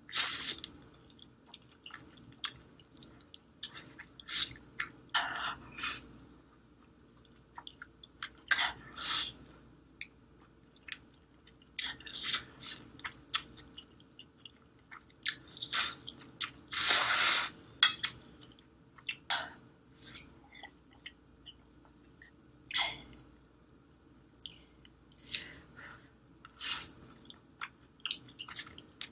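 Close-miked mouth sounds of a person eating Korean spicy instant noodles: irregular wet chewing and smacking with short slurps, and one longer, louder burst about 17 seconds in.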